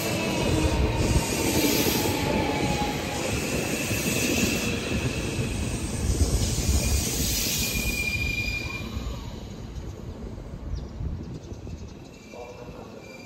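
A Hankyu electric train passing close by, its wheels running over the rails with a dense rumble and a thin high wheel squeal about seven seconds in. The sound fades away over the last few seconds as the train moves off.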